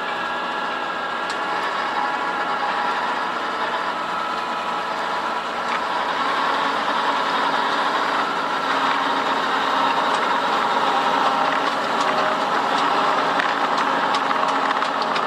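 Fendt 724 Vario tractor's diesel engine running steadily under load while ploughing and power-harrowing, with a rattling clatter from the implements. It grows somewhat louder about six seconds in.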